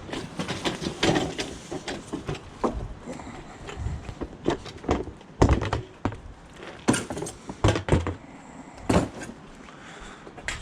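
Irregular knocks and thuds of scrap items being handled and moved, with the loudest knock about five and a half seconds in.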